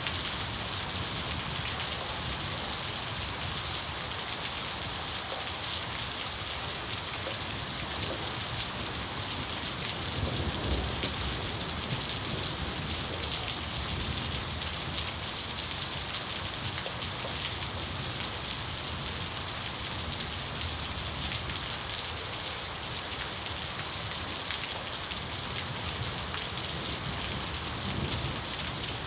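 Steady heavy rain falling and pattering on surfaces, with a low rumble of distant thunder swelling about ten seconds in and again faintly near the end.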